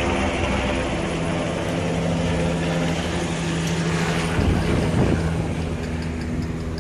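Helicopter engine and rotor running steadily with a constant hum, with a louder low rush of air about four and a half seconds in.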